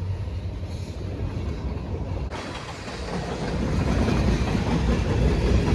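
Freight train passing close by, its cars rumbling and clattering over the rails, growing fuller and louder about two seconds in.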